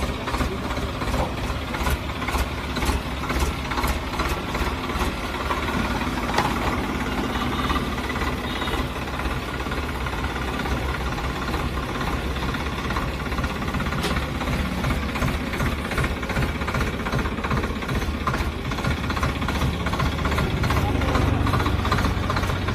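Diesel tractor engine running steadily with a knocking clatter, getting louder near the end.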